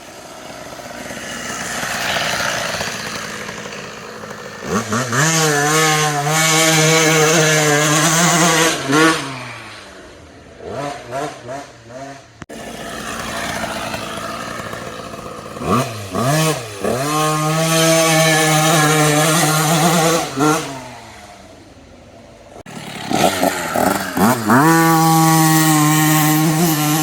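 Motocross dirt bike engine revving up sharply and holding at high revs, three times, with a rushing noise building before each run. The sound cuts off suddenly between runs.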